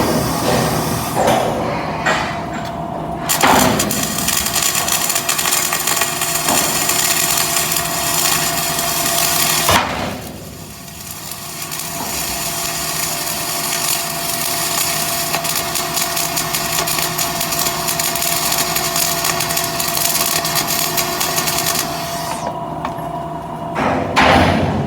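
Flux-cored arc welding: the arc crackling and sizzling steadily. It starts about three seconds in, sags briefly around ten seconds and stops a few seconds before the end.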